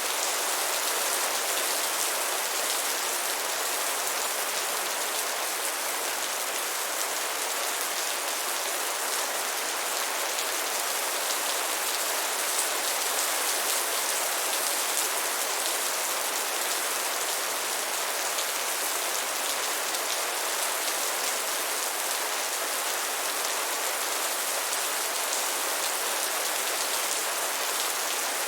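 Steady rain, a dense, even patter of drops that neither builds nor eases.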